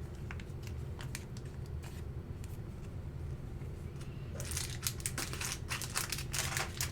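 Plastic card sleeves crinkling as trading cards are handled: a few light crinkles at first, then dense crinkling and clicking from about four seconds in, over a faint steady hum.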